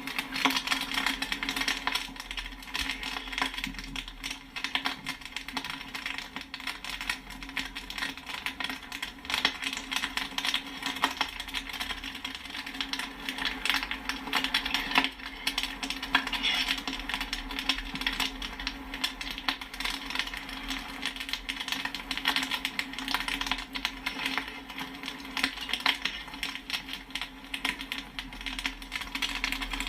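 Popcorn kernels popping in quick, dense succession, many sharp pops and pings a second, over a steady low hum.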